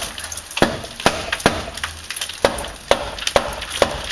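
Repeated sharp knocks and cracks on wood, about seven in four seconds at an uneven pace, as a wooden door frame is worked loose or driven into its opening.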